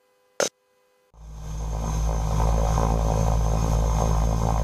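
Steady drone of the DHC-6 Twin Otter's turboprop engines and propellers heard through the cockpit intercom, cutting in about a second in after a short click, with a thin high whine over a deep rumble.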